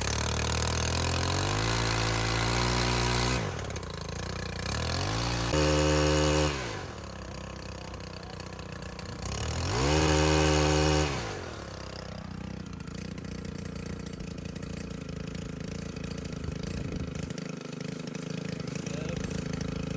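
Two-stroke chainsaw engine revved up to high speed three times, dropping back to idle in between, then idling steadily from about twelve seconds in.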